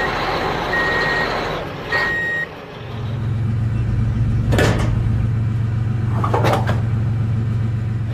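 Truck reversing alarm beeping three times, about a second apart, over engine noise, then the truck engine running with a steady low hum, with two short whooshes.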